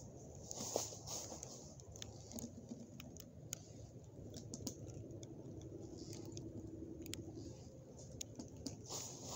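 Faint footsteps along a forest trail: scattered light crackles and ticks underfoot.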